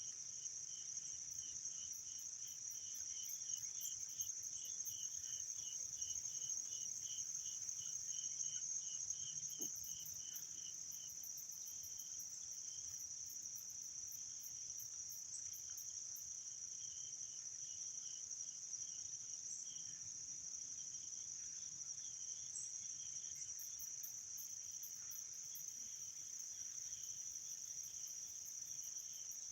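A steady high-pitched chorus of crickets and other insects, with a lower trill pulsing about three times a second for the first ten seconds or so and then only in snatches.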